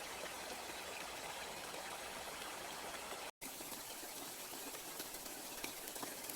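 Steady hiss of heavy monsoon rain, cut off for an instant about halfway through before it resumes.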